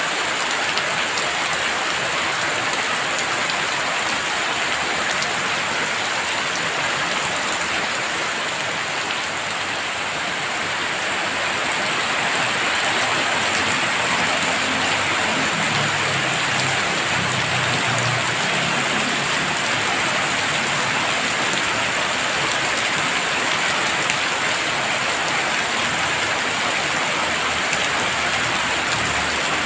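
Heavy rain falling steadily, a dense even hiss of drops on surfaces. A faint low rumble rises under it about halfway through.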